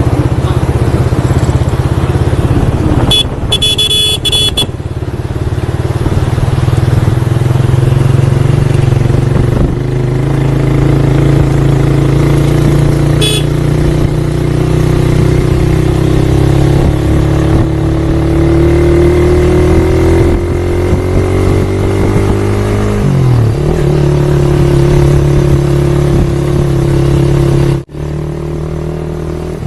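Motorcycle engine running while riding, with a short horn beep about three seconds in. The engine pitch climbs steadily, then falls sharply and settles lower, and near the end the sound drops suddenly to a quieter engine.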